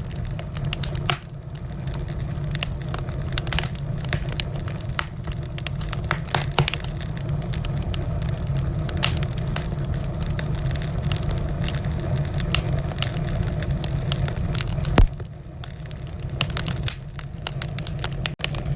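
Wood fire crackling in a fireplace: a dense run of sharp pops and snaps over a steady low rumble of flames, with one loud pop about fifteen seconds in.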